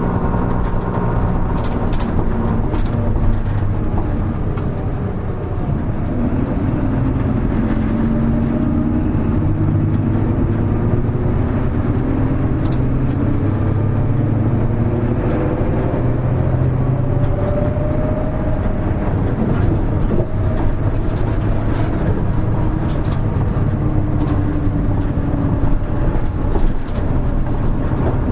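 Hino Rainbow HR (KL-HR1JNEE) city bus's diesel engine heard from inside the cabin while the bus is under way, its pitch rising and dropping as it pulls through the gears, with road noise underneath. A few sharp rattles from the cabin.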